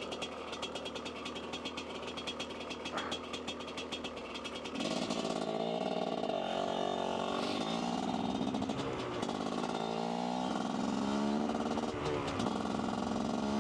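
Dirt bike engine idling with a fast, even beat, then about five seconds in it gets louder as the bike pulls away and runs on, its pitch rising and falling with the throttle.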